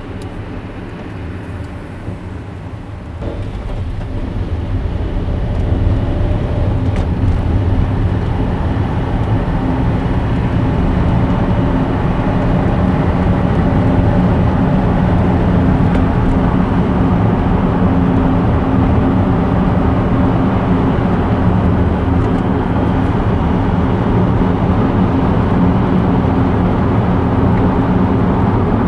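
A car being driven on the road: steady tyre and engine drone that grows louder a few seconds in, then holds steady.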